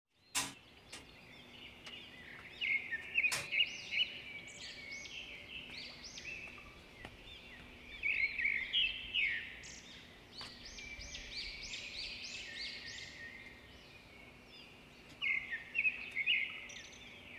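Birds chirping outdoors in clusters of quick, repeated high notes, coming and going several times, over a faint steady hum. A few sharp clicks sound in the first few seconds.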